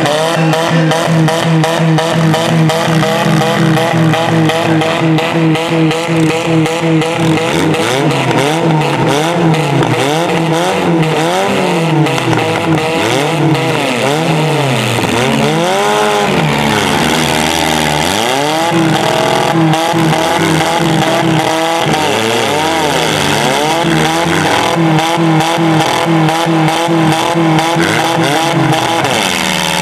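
Engines of several demolition-derby compact cars revving hard, over and over, rising and falling in pitch, with car bodies crashing together at times.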